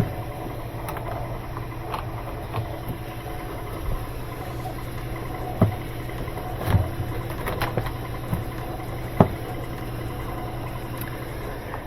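Steady low mechanical hum with scattered clicks and knocks, about seven of them, as parts are handled during washer reassembly.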